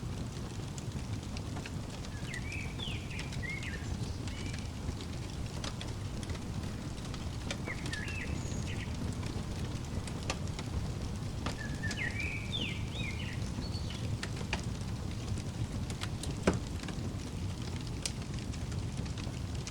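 Fireplace fire crackling: a steady low rumble with scattered pops, one sharper pop near the end. A small bird chirps in three short phrases over it.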